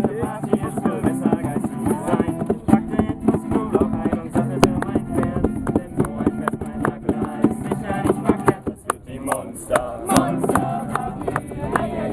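Acoustic guitar strummed in a steady rhythm, playing a campfire song, with a brief lull about three-quarters of the way through.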